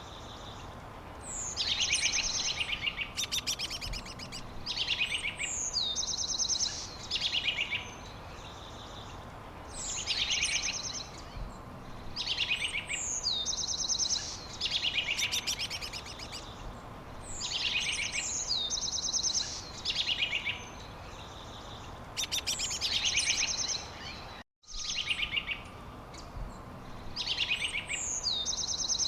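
Birds singing: phrases of rapid trills and chirps with rising whistled sweeps, repeating every three or four seconds over a steady background hiss. The sound cuts out for an instant about three-quarters of the way through.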